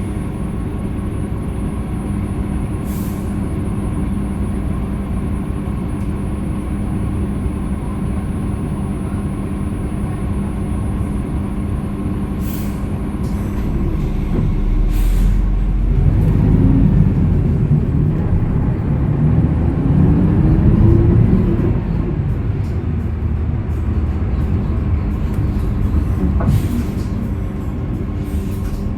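Hyundai Green City CNG bus's C6GB natural-gas engine heard from inside the cabin. It runs steadily at low revs, then about halfway through grows louder and rises in pitch as the bus accelerates, before easing back down.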